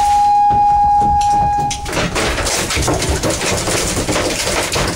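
A steady, single-pitched electronic beep lasting about two seconds that cuts off abruptly, followed by a rushing noise.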